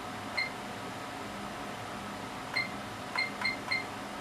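Front-panel keys on a bench test instrument being pressed, each press a click followed by a short, high beep. There are five in all: one about half a second in, then four in quick succession near the end, over the steady hum of the instruments.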